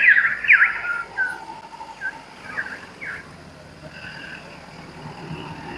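Birds calling: a burst of loud, quick chirps in the first second or so, then scattered fainter calls.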